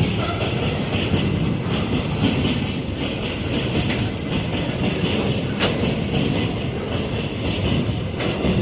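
Freight train wagons rolling past: a steady rumble of steel wheels on the rails, with a few sharp clicks over the rail joints.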